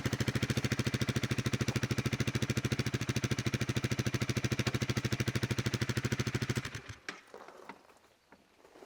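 Honda Rebel 250's single-cylinder engine idling with an even, rapid chug, then switched off about two seconds before the end; a few faint clicks follow in the quiet.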